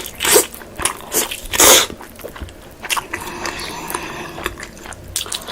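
A person biting and chewing pork close to the microphone: a few loud, crunchy bites in the first two seconds, then softer chewing.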